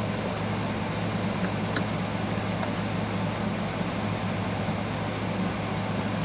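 Steady low mechanical hum with a hiss over it, and two faint light clicks about a second and a half in.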